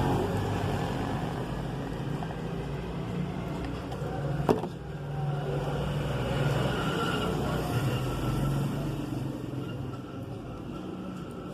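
A motor vehicle engine running, with a low hum that drifts in pitch and fades toward the end, and one sharp knock about four and a half seconds in.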